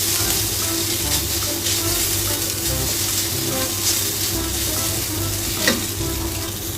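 Stir-fry sizzling steadily in a hot pan as it is sautéed, with one sharp clack of a utensil against the pan near the end.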